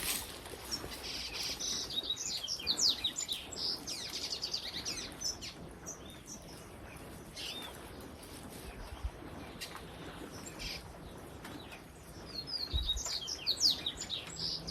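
Birds chirping in quick runs of short, falling high notes: one bout in the first few seconds and another near the end, with quieter calls between.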